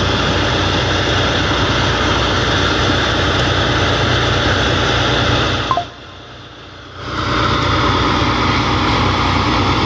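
A truck engine running steadily. The sound drops away suddenly for about a second around six seconds in, then comes back.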